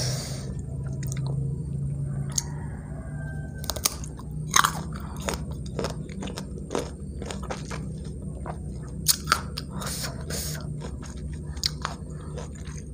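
Crisp crunching and chewing of raw unripe green mango slices, close to the microphone, with many sharp crunches as the firm flesh is bitten and chewed.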